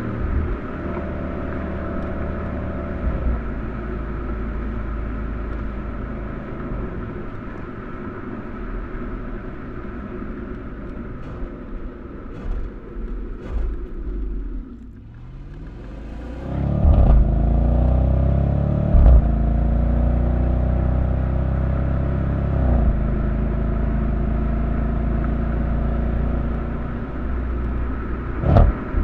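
2013 Audi RS5's 4.2-litre V8 running while driving, picked up by a microphone outside the car. It holds a steady note at first and dips briefly about halfway. Then it gets much louder under acceleration, its note climbing, with a couple of short breaks. A sharp click comes near the end.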